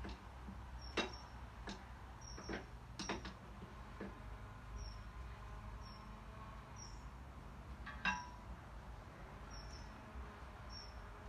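A handful of short, sharp metallic clinks and knocks at uneven intervals, the loudest about eight seconds in, over a faint low hum: metal engine parts or tools being handled.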